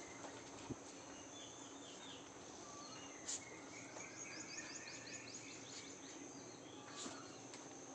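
Faint outdoor morning ambience: birds chirping in short phrases, with a quick run of about eight descending notes around the middle, over a steady high-pitched insect drone. A faint steady low hum runs underneath.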